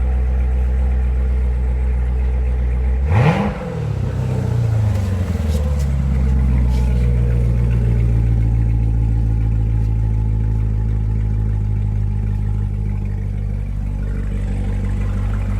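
2019 Corvette Z06's supercharged 6.2-litre V8 cold-started: about three seconds in it fires with a sharp crack and flares up in pitch. It then settles over a few seconds into a steady, fast cold idle. A steady low engine drone is heard before it fires.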